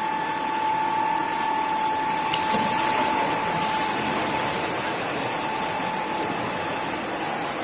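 Steady, loud mechanical noise with a constant high whine running through it; the whine fades away near the end.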